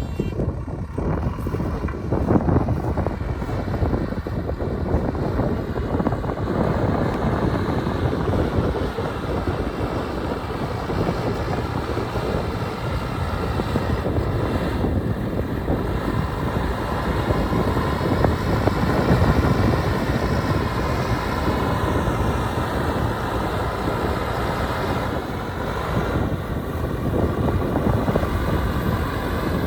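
Heavy construction machinery's diesel engine running steadily, with strong wind buffeting the microphone.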